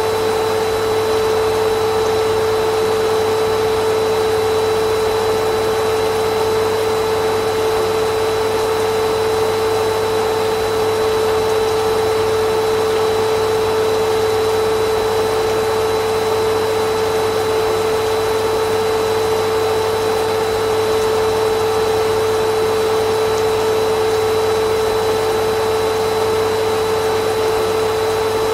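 Vacuum cleaner motor running steadily, an even whooshing noise with a constant hum.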